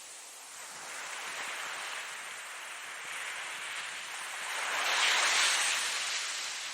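Ocean waves breaking on a shore: a hiss of surf that swells about a second in, builds to its loudest about five seconds in as a wave washes up, then eases off.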